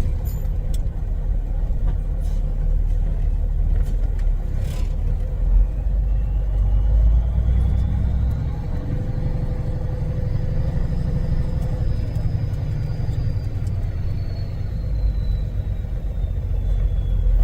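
Semi truck's diesel engine running as the rig drives slowly, a steady low rumble. A faint high whine rises and then falls over several seconds in the middle.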